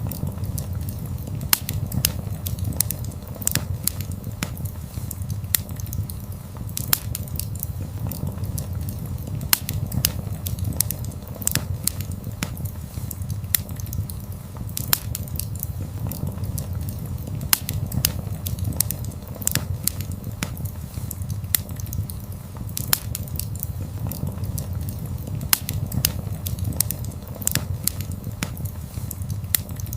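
Wood fire burning: irregular sharp crackles and pops, several a second at times, over a steady low rumble of the flames.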